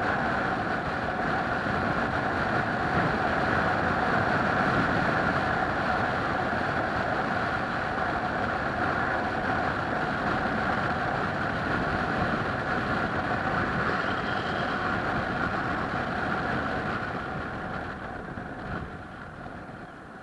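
Steady running noise of a moving vehicle, fading away over the last few seconds.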